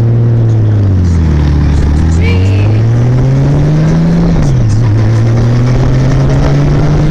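Motorcycle engine running on the road: the revs fall off, climb steadily for about three seconds, drop sharply at a gear change, then pick up again.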